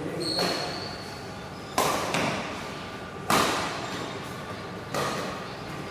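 Badminton racket strikes on a shuttlecock during a rally: three sharp smacks about a second and a half apart, each ringing on briefly in the hall, with a softer hit just before the first.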